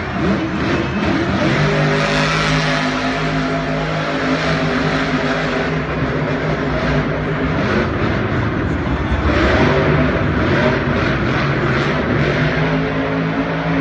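Monster truck engine running loud, holding a steady pitch for long stretches, with a louder surge about nine seconds in.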